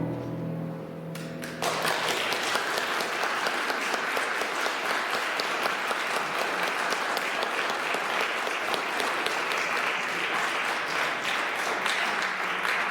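The last held notes of a song with piano accompaniment die away, then an audience breaks into steady applause about a second and a half in.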